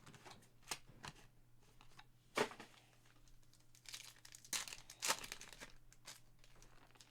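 Trading-card pack wrappers crinkling and cards being handled, with a few short, sharper rustles.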